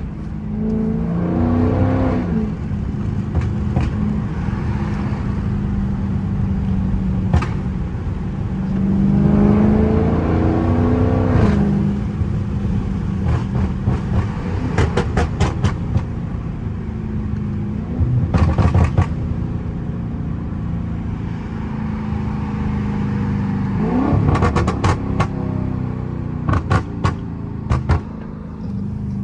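Dodge Charger 392's 6.4-litre HEMI V8 accelerating hard several times, its pitch rising through the revs, with rapid bursts of exhaust pops and crackles on lift-off from a pop tune.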